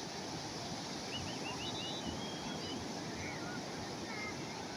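Calm sea waves washing steadily on the shore, with a few faint high chirps over them about a second in and again later.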